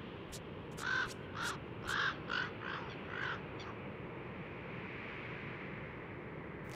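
A bird calling: a run of about six short calls, roughly two a second, between about one and three and a half seconds in, over a steady background hiss.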